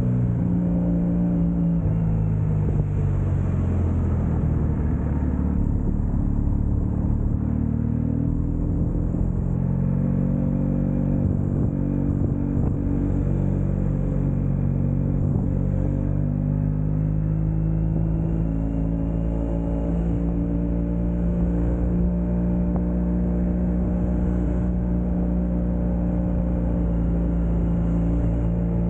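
Motorcycle engine running on the highway, its pitch falling in the first few seconds, climbing again, then holding steady as the throttle changes.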